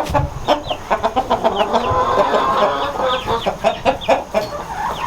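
A flock of chickens clucking, many birds calling over one another, with a few light knocks among the calls.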